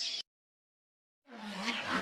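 Mostly dead silence: a call cuts off abruptly just after the start, and a faint, indistinct sound fades in over the last half second.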